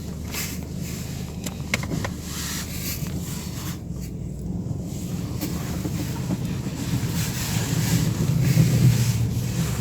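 Cabin noise of a Mercedes-Benz W124 pulling away: a steady low engine and road rumble that grows louder toward the end as the car picks up speed. A few light clicks come about two seconds in.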